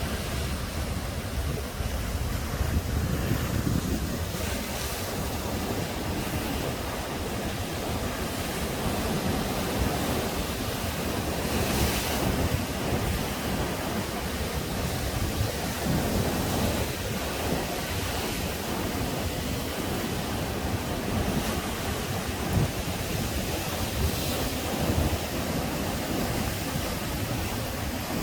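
Sea waves breaking and washing onto the shore in slow, rolling surges, with wind buffeting the microphone.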